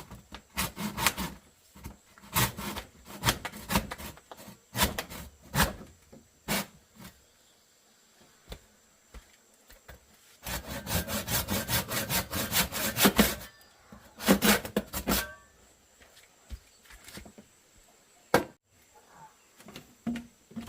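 Hand sawing and scraping on wood: uneven strokes at first, then a quick, steady run of sawing strokes for about three seconds midway, a few more strokes, and a single sharp knock near the end.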